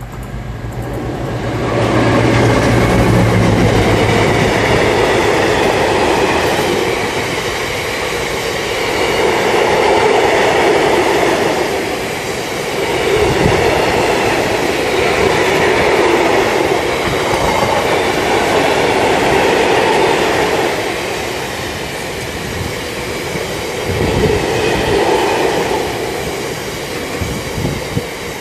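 A diesel freight locomotive passes close by with a long train of bogie tank wagons. The engine's low hum fills the first few seconds, then comes the steady rumble and clatter of the wagons' wheels on the rails, rising and falling as the wagons go by, with a few sharp knocks.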